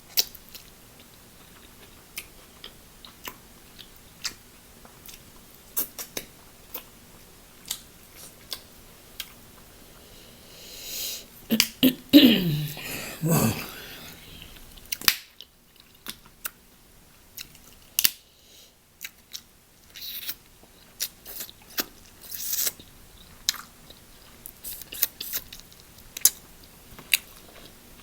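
Close-up chewing and mouth sounds of someone eating: scattered wet clicks and smacks, with a louder, longer stretch about twelve seconds in.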